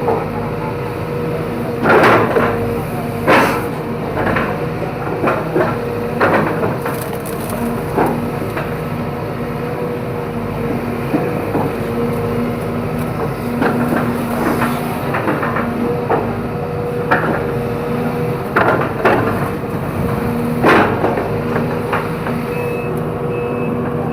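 Excavator engine running steadily under load while bamboo and woody debris crack and snap again and again under the bucket. A reversing beeper starts near the end.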